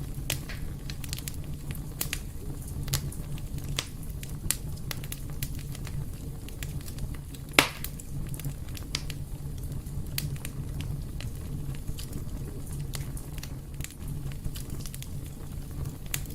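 Wood fire burning in a fireplace: a steady low rumble of flames with scattered crackles and pops. One louder, sharper pop comes about halfway through.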